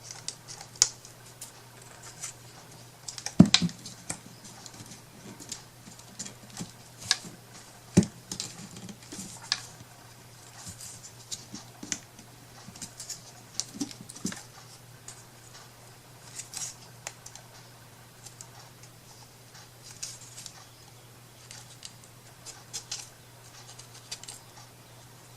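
Hands working craft materials on a wooden piece: scattered small clicks, taps and scratchy rustles, with sharper knocks about three and a half seconds in and at about eight seconds, over a faint steady low hum.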